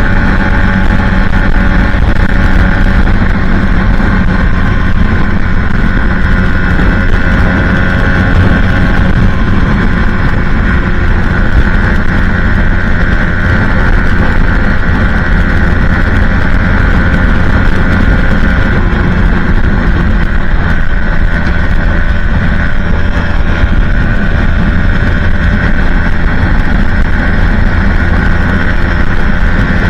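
Aprilia Tuono 125's single-cylinder engine, fitted with a Leo Vince exhaust, running at steady, nearly unchanging revs while riding, with heavy wind rushing on the microphone.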